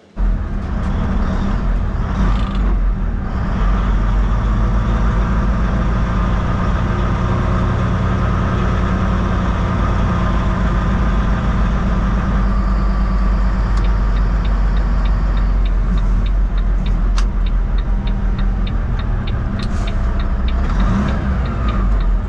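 Heavy vehicle engine running steadily with a deep rumble and road noise.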